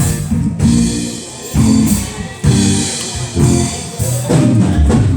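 Live gospel church band playing: held chords with drum and cymbal hits.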